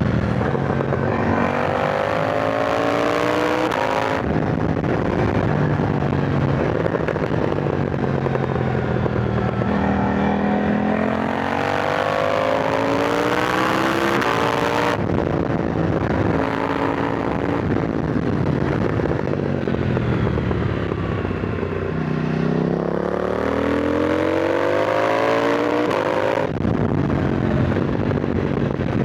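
KTM 990 Duke motorcycle engine under riding load, its pitch climbing in three long pulls and dropping away between them as the rider accelerates and rolls off. Wind rushes over the helmet-mounted microphone throughout.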